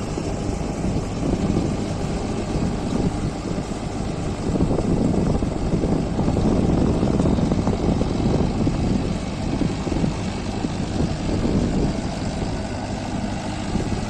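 Mahindra Arjun Novo 605 4WD tractor's diesel engine running steadily, growing louder about four seconds in and easing off again near the end.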